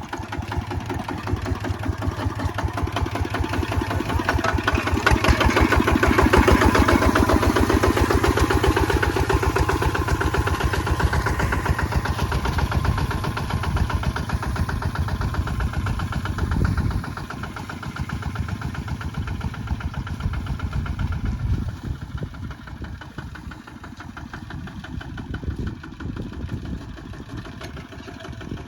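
Kubota ZT155 walking tractor's single-cylinder diesel engine running under plowing load with a fast, steady chug. It grows louder over the first several seconds and eases off after about the middle.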